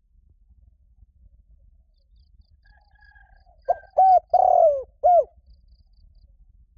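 Spotted dove cooing once, about four seconds in: two short notes, a longer falling coo, then a short final note. A faint thin chirping from another bird comes before it.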